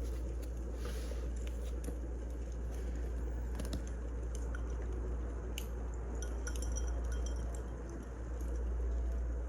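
Wood fire burning with a steady low rumble and scattered sharp crackles and pops, several of them clustered around the middle.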